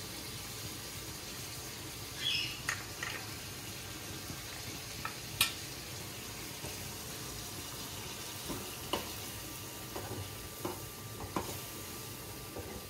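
Chicken and tomato masala sizzling in a metal karahi over a gas flame, with a metal spatula scraping and clinking against the pan as it is stirred. The steady sizzle carries scattered sharp clinks.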